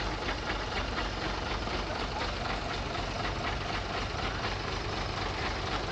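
Heavy truck engine idling steadily, with an even low pulse.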